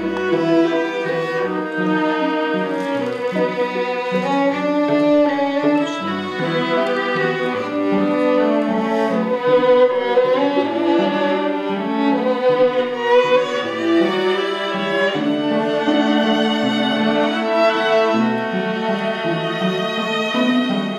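Instrumental music on bowed strings, a violin melody over cello, several notes sounding together and changing every second or so.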